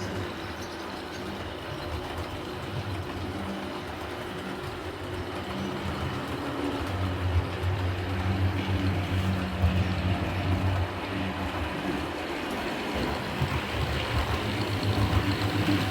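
HO scale model train running along the track: a steady rumble of motor hum and wheel noise that grows gradually louder.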